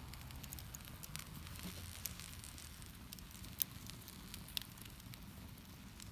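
Wood campfire crackling, with scattered sharp pops; the loudest pop comes about three and a half seconds in, and a smaller one about a second later.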